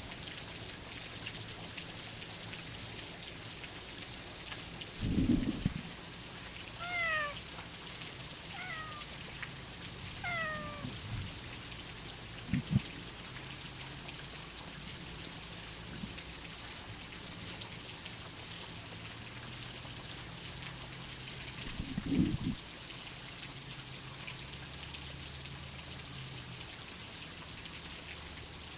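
Steady rain with a cat meowing three times: short, falling meows between about seven and ten seconds in. Two short, low thunder rumbles come about five seconds in and again about twenty-two seconds in.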